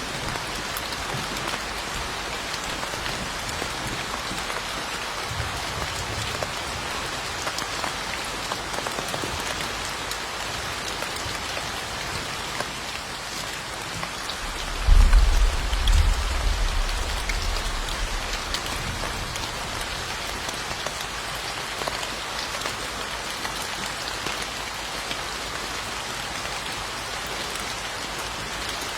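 Steady rain falling, a dense even hiss with scattered drop ticks. About halfway through, a deep low rumble swells in suddenly and dies away over a few seconds.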